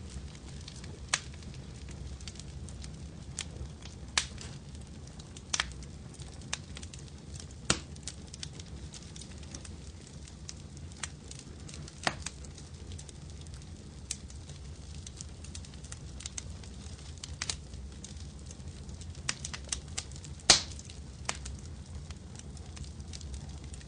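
Fireplace fire crackling: a steady low rumble with scattered sharp pops and snaps at irregular intervals, the loudest pop about twenty seconds in.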